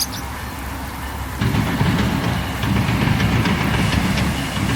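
Amtrak passenger train's diesel locomotive running past, a steady low rumble that gets suddenly louder about a second and a half in.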